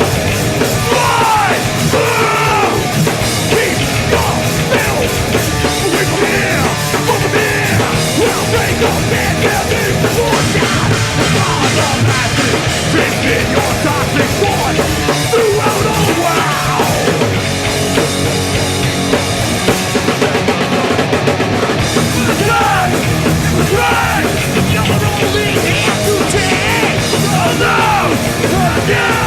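Hardcore punk band playing live: drum kit and guitars with yelled vocals.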